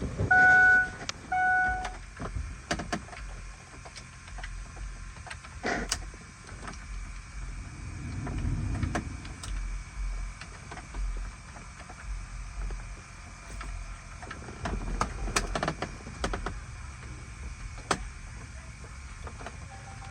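An electronic chime beeping about once a second, stopping about two seconds in. Scattered faint clicks and knocks follow, with a brief low whir near the middle.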